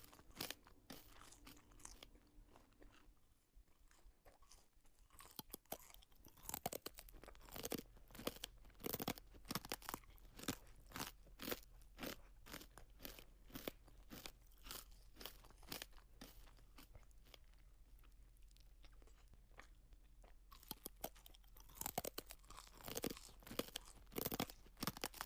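Close-miked crunching and chewing of crisp food, a long run of sharp crunches, with a lull a few seconds in and the densest crunching near the end.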